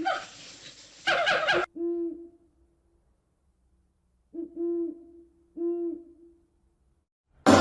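An animal's quick run of repeated chattering calls that stops under two seconds in, followed by three low hoots, each about half a second long at a steady pitch.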